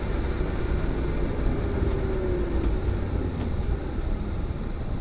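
Honda NC750X parallel-twin engine running through an aftermarket GPR muffler while the bike is ridden. A steady engine and road noise, with the engine note easing down in pitch about two seconds in.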